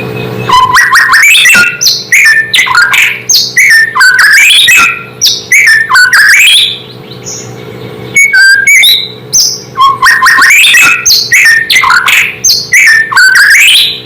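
White-rumped shama (murai batu) singing its loud, rapid, varied whistled song in two long bouts with a short pause between, over a low steady hum. It is a full territorial song of the kind used as a lure to provoke other shamas into answering.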